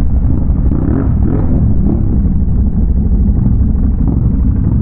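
Big-bore Can-Am Renegade ATV's V-twin engine running at low revs, a steady loud low rumble.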